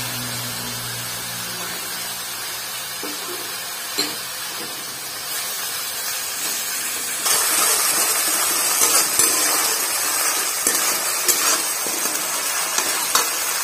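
Onion and garlic paste sizzling as it fries in mustard oil in a metal kadai, stirred with a metal spatula that clicks against the pan a few times. The sizzling grows louder about seven seconds in.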